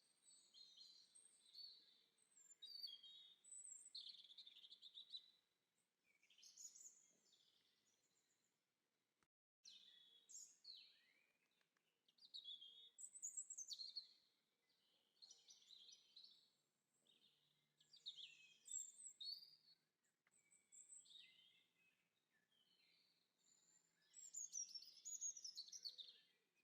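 Faint birdsong: songbirds singing short, quick, twittering phrases one after another, high-pitched. The sound drops out completely for a moment about nine seconds in, then the song resumes.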